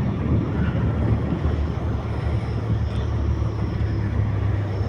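Car running along a road, heard from inside the cabin: a steady low rumble of engine and tyre noise.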